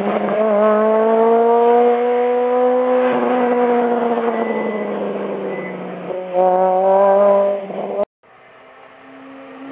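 Rally car engine at full throttle, its pitch climbing for about three seconds and then falling as it fades away. A second loud burst of engine about six seconds in, then a sudden cut to silence, after which another engine rises.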